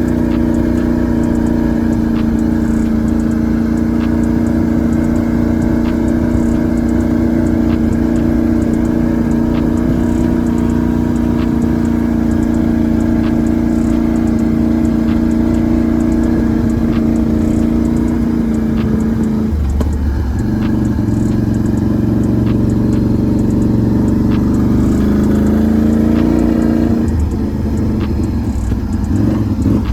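Can-Am Renegade 1000 XMR ATV's V-twin engine running under way at a steady speed. Its note changes abruptly about two-thirds of the way in, then climbs again near the end.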